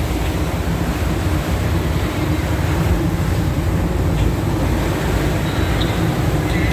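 Tour boat's engine running with a steady low rumble, with wind buffeting the microphone.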